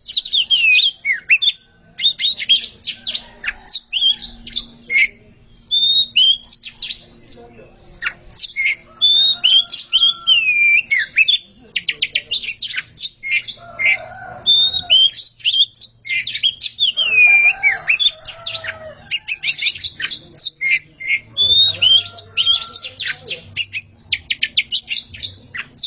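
A pair of oriental magpie-robins (kacer) singing against each other in a song duel: loud, varied whistled phrases, sliding notes and rapid trills, broken by short pauses.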